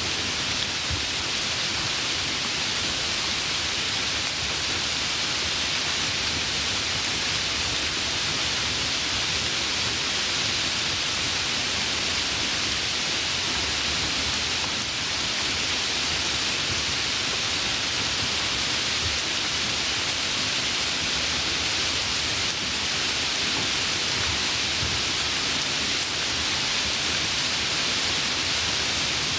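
Steady, dense rainfall, a constant hiss with no single drops standing out.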